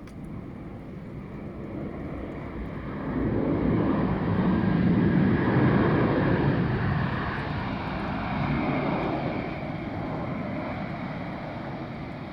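An airliner on its landing approach passes by with a rushing engine rumble that swells to its loudest about a third of the way in, then slowly fades.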